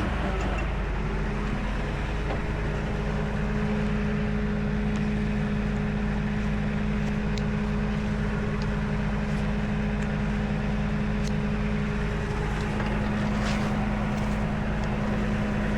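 A tow truck's engine running steadily at idle, with a constant droning hum and a few faint clicks over it.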